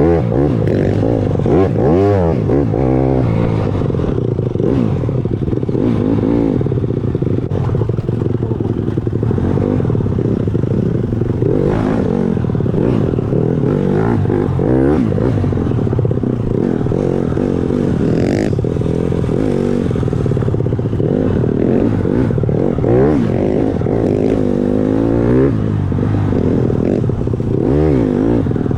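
Dirt bike engine running hard while riding, its pitch rising and falling again and again as the rider works the throttle through gears and turns.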